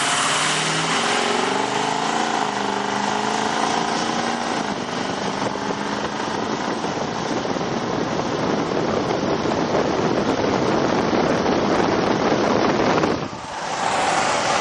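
Ford 6.0 Power Stroke V8 turbo-diesel breathing through a 4-inch turbo-back straight-pipe exhaust as the truck drives off. The engine note climbs over the first few seconds, gives way to a loud steady rush, and dips briefly about 13 seconds in before picking up again.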